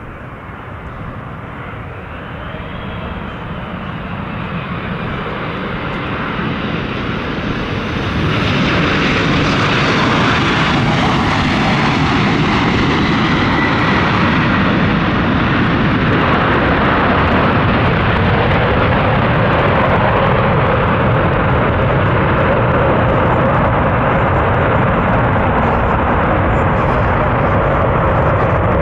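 Boeing 787-8 airliner's jet engines during landing, growing louder over the first eight seconds, then holding loud and steady.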